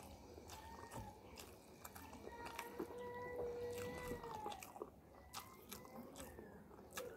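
Close-up eating sounds: wet chewing and sharp mouth clicks of someone eating rice by hand. A high-pitched, drawn-out cry, likely an animal's, sounds in the background for over a second about two and a half seconds in, with shorter ones around it.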